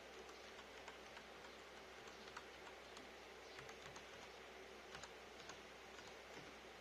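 Faint, irregular keystrokes on a wireless mechanical keyboard with Cherry MX Red switches, scattered clicks a fraction of a second apart over a low steady hum.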